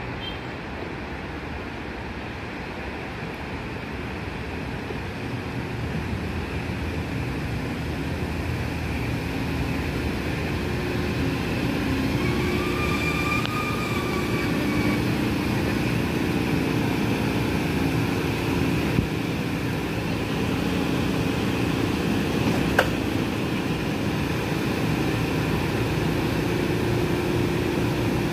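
Metro-North commuter train pulling into the station, its rumble growing louder as it arrives and passes close, with a steady hum once it is alongside. A brief high squeal comes about halfway through, and there are two sharp clicks in the later part.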